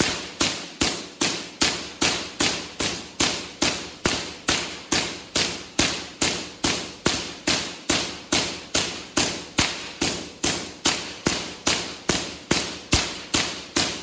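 Artificial lightning: high-voltage spark discharges cracking sharply in a steady series of about three strikes a second, each with a brief ringing tail.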